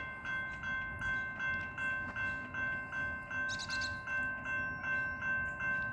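Railroad grade crossing warning bell ringing steadily, about two to three dings a second, signalling an approaching train.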